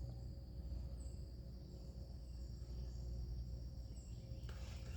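Faint steady outdoor background: a low rumble under a thin, steady high-pitched hum, with two brief faint high chirps, one about a second in and one about four seconds in.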